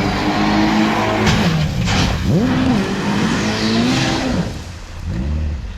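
A loud engine revving hard, its pitch swooping up and down several times before it fades away near the end.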